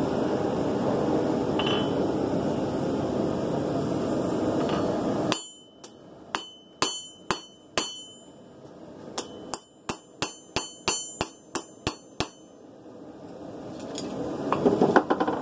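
A steady rushing noise, then a blacksmith's hammer striking a hot knife blade on the anvil: about fifteen ringing blows, a group of five and then a quicker run of ten, as the bevels are hammered in.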